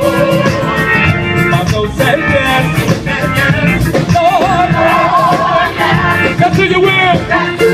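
Live gospel band playing with singers carrying the melody: full band with guitar and a steady beat under wavering sung lines.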